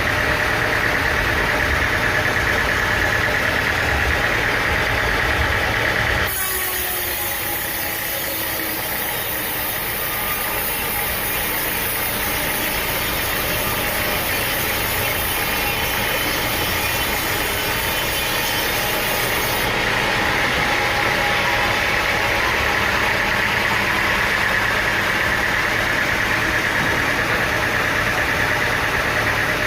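Sawmill machinery running steadily with an engine drone, changing abruptly in character about six seconds in and again about twenty seconds in.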